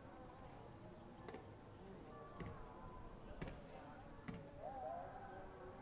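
Faint, steady high-pitched insect drone, like a cricket or cicada chorus, with four sharp clicks about a second apart. A short, low, wavering whistled note comes near the end.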